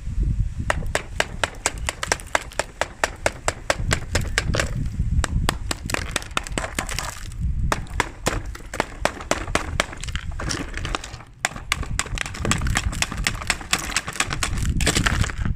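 Ice cubes being tapped and knocked: a quick run of sharp clicks for about the first seven seconds, then scattered knocks over a low scraping rumble.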